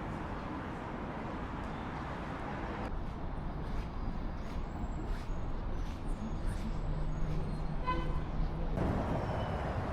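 Steady ambient noise with faint voices, changing abruptly twice like edit cuts; the middle stretch holds scattered light clicks and a short beep near the end.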